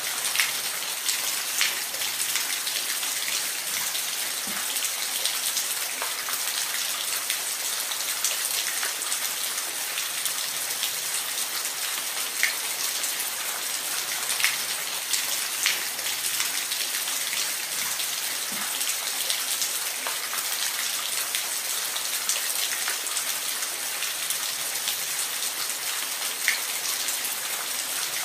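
Steady rain falling, a dense high hiss with scattered louder individual drops ticking every second or two.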